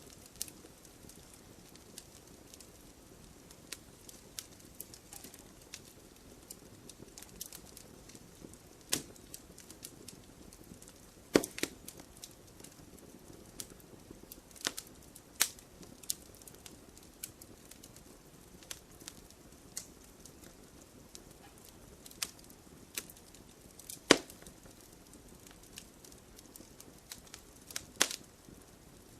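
Wood fire crackling: a low steady hiss with irregular sharp pops and snaps, a few much louder ones scattered through.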